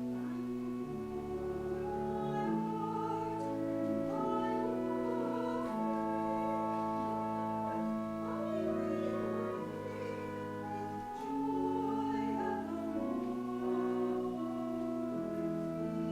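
Slow sacred music: singing over sustained instrumental chords, with long held notes that change slowly.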